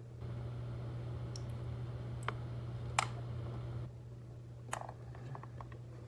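A few sharp clicks and small taps, like hard plastic parts being handled, over a steady low hum. A louder wash of noise runs under the first four seconds, then drops away.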